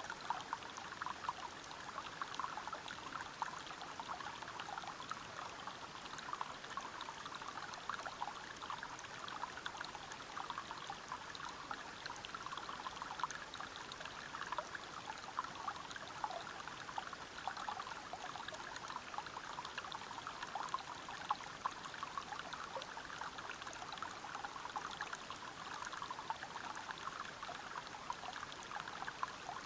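River water flowing and splashing over rocks, a steady rush with many small bubbling drops and splashes.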